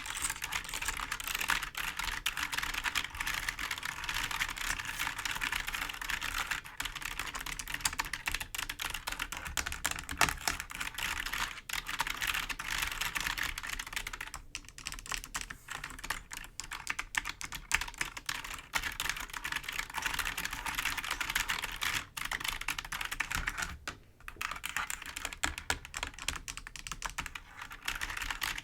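Fingers tapping and scratching on computer keyboard keys: dense, fast clicks over a steady scratchy hiss, with short lulls about halfway through and again later.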